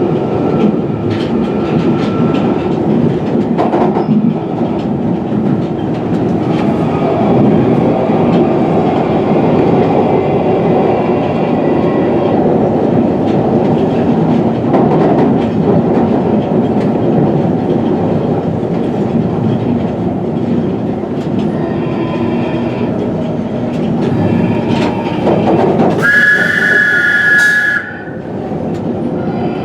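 London Underground 1995 Stock train running, heard from inside the driver's cab: a steady, loud rumble of wheels and running gear. About 26 seconds in, a loud high-pitched sound with a hiss lasts about two seconds; after it the running noise is quieter.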